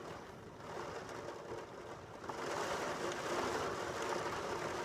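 Heavy rain pouring down, a steady hiss that grows louder about two seconds in.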